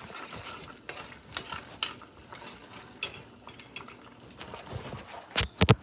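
Scattered light clicks and clinks of kitchen utensils and dishes being handled, with a few louder knocks near the end.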